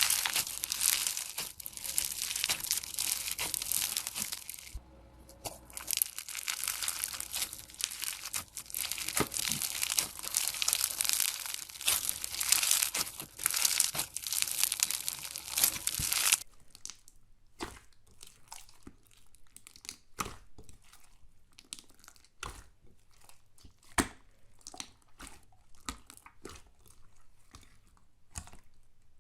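Slime being squeezed and worked, making a dense crackling, crinkling noise. About sixteen seconds in it cuts to a quieter clip of separate sticky clicks and pops.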